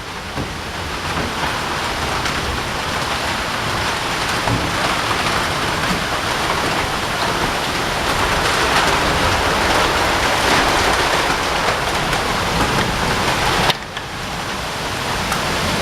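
Heavy rain pouring down in a steady hiss, swelling toward the middle and dropping off abruptly about 14 seconds in.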